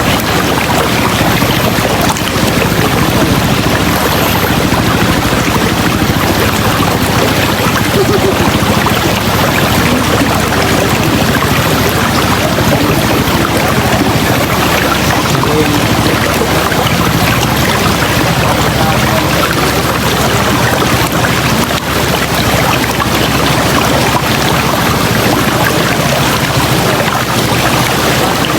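River water rushing steadily over rocks, a loud, even rush with no breaks.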